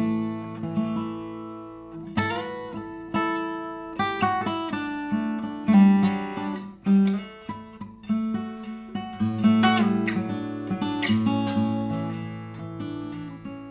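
Bagnasco & Casati OM-23 acoustic guitar, with a European spruce top and Pernambuco back and sides, being played: chords strummed and picked, a new one about every second or so, each ringing out and fading before the next.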